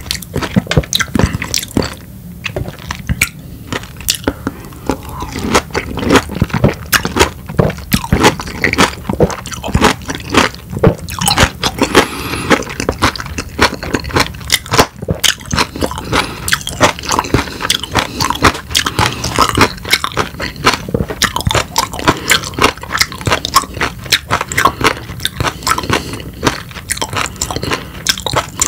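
A person biting and chewing pieces of peeled whole lemon close to the microphone: a dense, irregular run of wet clicks and chewing strokes.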